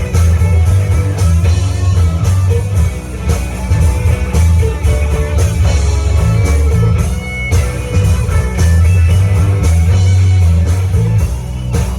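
A live rock band playing a song, guitar to the fore over a heavy bass.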